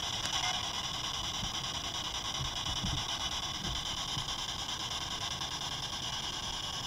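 Spirit box radio scanner giving out a steady hiss of static while the investigator waits for a reply, with a few faint low knocks.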